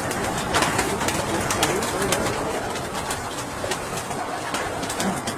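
Flock of tippler pigeons in a loft cooing, with many short sharp clicks and taps scattered throughout.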